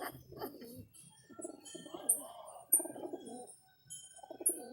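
Pigeons cooing in low, wavering calls, twice, with short high chirps of small birds between them.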